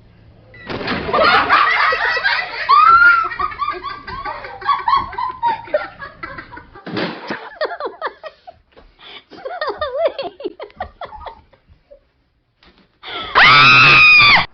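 People laughing and giggling with high-pitched squeals, then a gap, then a loud, steady, high-pitched cry lasting about a second near the end.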